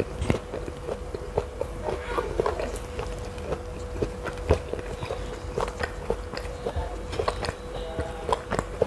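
Close-up chewing and biting of crisp raw fruit, pineapple and cucumber with peanut sauce, giving many short, sharp crunches at an uneven pace. A faint steady hum runs underneath.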